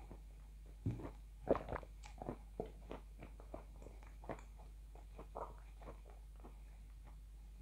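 A person chewing food with the mouth closed, picked up close by a lapel microphone: a quick run of wet clicks and smacks about a second in, thinning to occasional ones.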